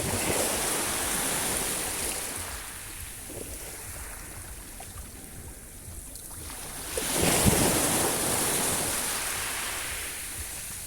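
Sea waves breaking and washing up the shore. One wave surges in right at the start, and a bigger one about seven seconds in, each followed by a fading hiss.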